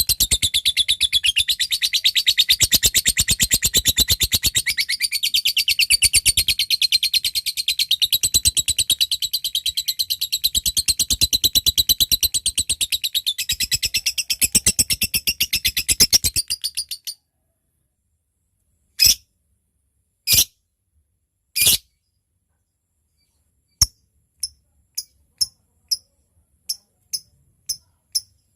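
Lovebird giving a long, very rapid high chatter (ngekek panjang) that stops abruptly after about seventeen seconds. After a short silence come a few separate sharp chirps, then a quicker run of short ticking calls (ngetik) near the end.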